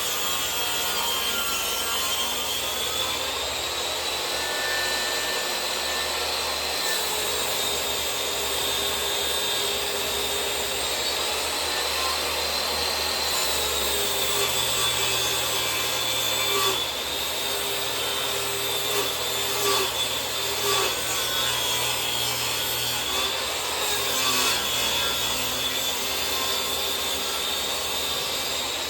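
Electric power tool cutting or working wood: a steady, high-pitched motor whine that drifts slightly in pitch throughout, with the rasp of the tool against the wood.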